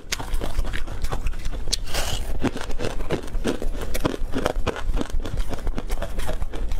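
Crispy, crumb-coated fried food being bitten and chewed close to the microphone: a fast, irregular run of crackly crunches.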